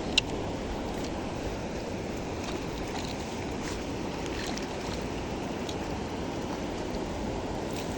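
Steady rush of flowing river water. A single sharp click comes just after the start, with a few faint ticks later.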